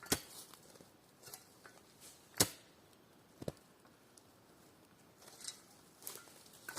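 Irregular sharp knocks of hand carpentry work: a strong strike near the start, the loudest about two and a half seconds in, another about a second later, and lighter taps toward the end.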